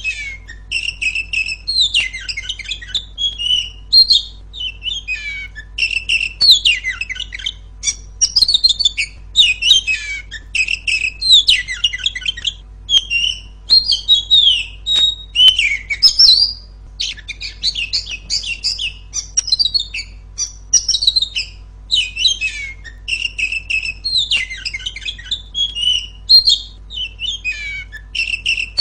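Female oriental magpie-robin (kacer) singing loudly and almost without pause: a rapid, varied run of clear whistles, slurred notes and chattering phrases.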